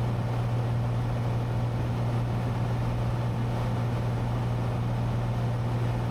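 Cessna 182T in cruise flight: the steady drone of its six-cylinder Lycoming IO-540 engine and propeller heard from inside the cabin, a constant low hum with wind and airframe noise over it.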